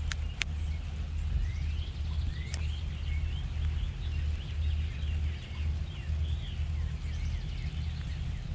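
Small birds chirping at a feeder, many short up- and down-gliding calls overlapping, over a steady low rumble, with a few sharp ticks in the first few seconds.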